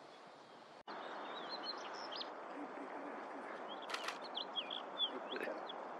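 Güldenstädt's redstart calling: a run of short, high chirps that slide up and down, with a couple of sharp clicking notes among them, coming in from about three and a half seconds over a steady background hiss. The sound drops out for an instant just under a second in.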